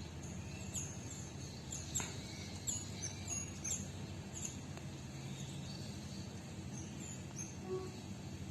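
Small birds chirping in short, high, repeated chirps over a steady low background rumble, with one sharp click about two seconds in.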